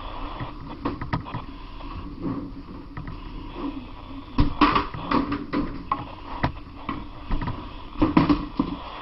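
Irregular knocks, bumps and clatter of firefighters' gear and debris as they move through a building to make access.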